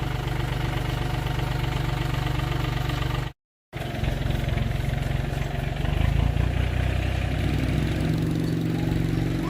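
An engine running steadily. It cuts out abruptly for a moment about three and a half seconds in, then carries on, with its note shifting a little around the middle of the second half.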